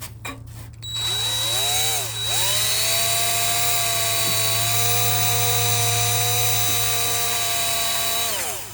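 Electric drill spinning up about a second in, easing off briefly, then running at a steady speed for several seconds before winding down near the end, while drilling a hole in the underbody heat shield to fasten it.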